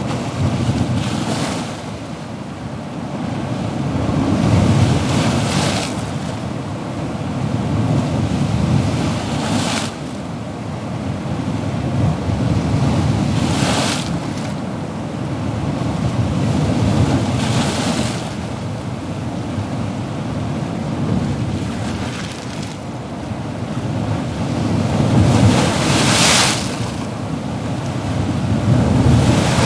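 Ocean waves breaking and washing on a shore, a steady surf rush that swells with a hissing surge about every four seconds.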